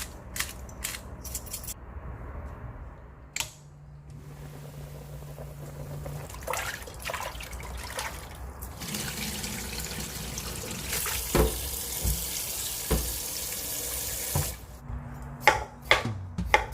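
Kitchen tap running into a sink for several seconds, then shut off, with sharp knocks before and after.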